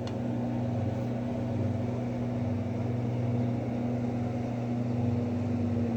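Steady low mechanical hum at an unchanging pitch, like a motor or generator running.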